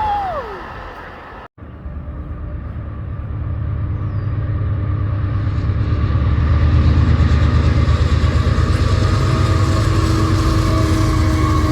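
A train's low rumble. A short falling tone at the very start, then a brief dropout about a second and a half in. After that the rumble builds over several seconds and runs on steadily, with a faint steady hum through it.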